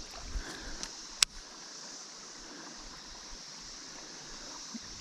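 Steady hiss of flowing water in a rain-swollen creek, with a few light clicks and one sharp click about a second in.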